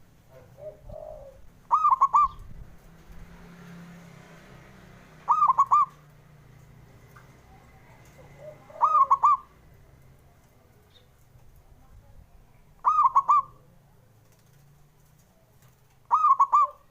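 Zebra dove (perkutut) cooing: five short, rolling coo phrases at a steady pace of about one every three and a half seconds. Two fainter, lower notes come in between.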